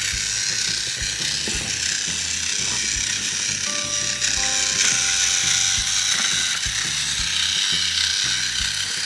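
Small motor and gears of a battery-powered toy Thomas engine whirring steadily as it runs along the track, with background music.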